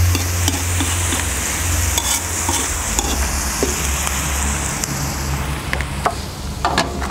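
Duck pieces and sliced onion sizzling in hot oil in a kazan, with a metal skimmer clicking and scraping against the pot as they are stirred. The sizzle quietens about five and a half seconds in, once the stirring stops.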